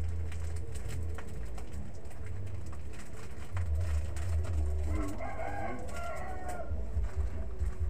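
A bird calls once for nearly two seconds, about five seconds in, over a constant low rumble.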